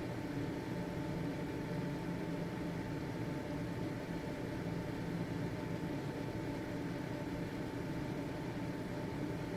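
Household ventilation fan running steadily: a constant motor hum and airflow whoosh with a faint high steady tone over it.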